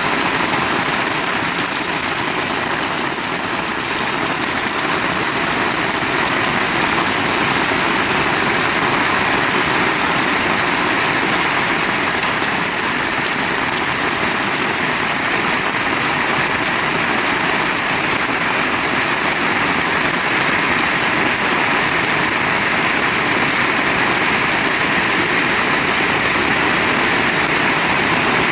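Heavy rain pouring steadily, a loud even hiss with no letup.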